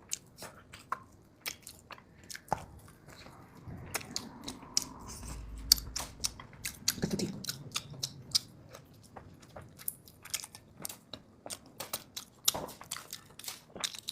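Close-miked chewing and biting of food, with many short wet clicks and smacks at an irregular pace.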